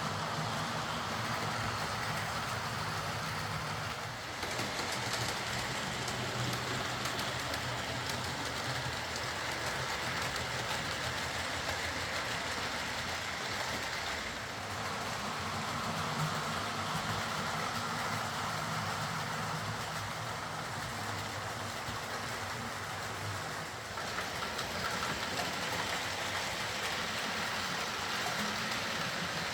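Hornby Class A4 OO gauge model locomotive running on track: a steady whir of its motor and wheels on the rails, dipping briefly about every ten seconds.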